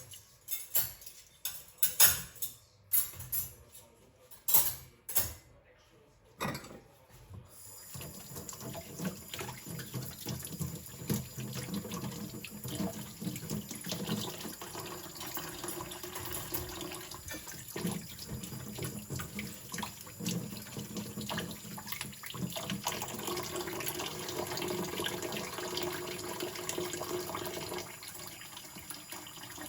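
Metal cutlery clinking several times in the sink. About seven seconds in the tap is turned on, and water runs steadily over the cutlery being rinsed, with occasional light clinks.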